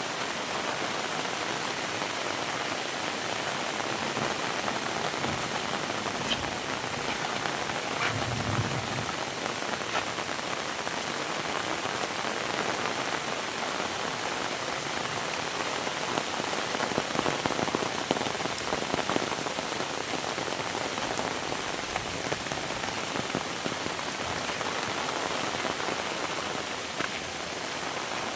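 Heavy rain falling steadily, a dense even hiss with scattered sharper drop hits. There is a brief low thud about eight seconds in.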